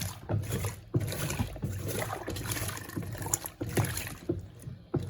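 Electrolux Turbo Compacta LTC07 top-loading washer agitating a load: the agitator swishes back and forth about twice a second, sloshing water and clothes in the tub.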